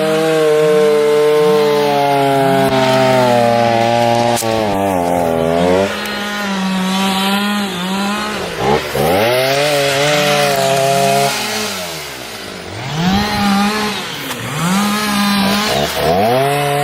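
Chainsaw running at high revs, its pitch sagging and climbing back several times.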